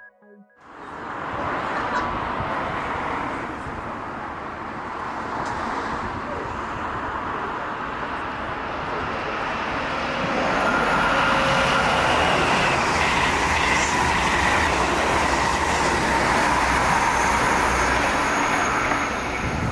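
SJ X2000 (X2U) electric high-speed train running through the station, with steady rumble and rail noise that grows louder about halfway through and stays loud until it cuts off near the end.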